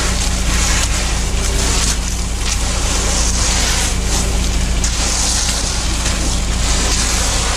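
An engine running steadily with a low drone, under a rough, gritty noise that swells and fades.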